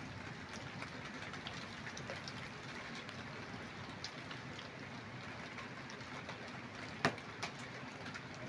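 Steady rain, with scattered light ticks of drops striking nearby surfaces and a single sharper tap about seven seconds in.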